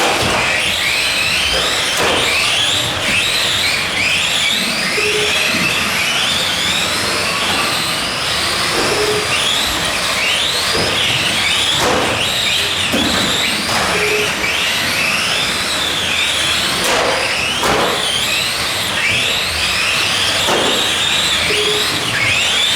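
Several electric 1/10 Tamiya Euro Truck RC racers lapping together, their motors and gears whining, with many overlapping whines rising and falling in pitch as they accelerate and brake.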